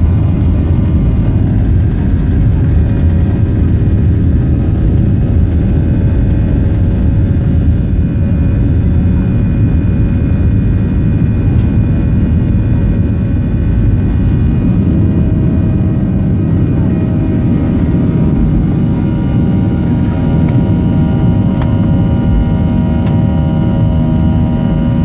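Boeing 737-800's CFM56 jet engines running steadily: a deep rumble with several steady whining tones over it, holding an even level throughout.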